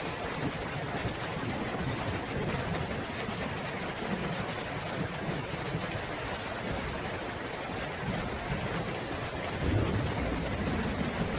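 Steady heavy rain falling, with low rolling thunder under it; the thunder swells louder about nine and a half seconds in.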